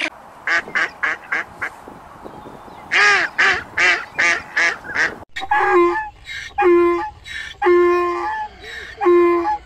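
Geese or ducks calling: two quick runs of short honks, then, after a sudden cut, several longer, level-pitched honks about a second apart.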